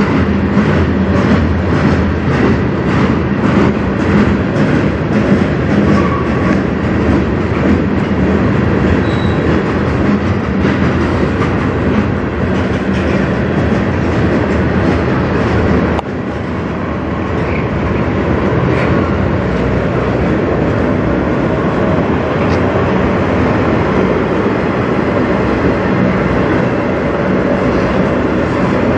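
Freight train cars, covered hoppers then autoracks, rolling past close by: a steady loud rumble of steel wheels on rail, with regular clickety-clack from the wheels over the first several seconds.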